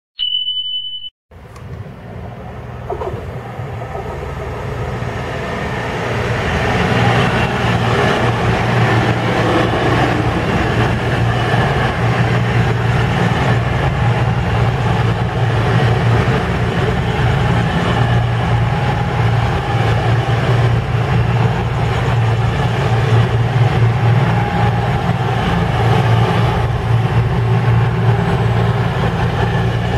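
Train running, with a steady low engine drone and rail noise that grows louder over the first several seconds and then holds steady. A short high beep sounds at the very start.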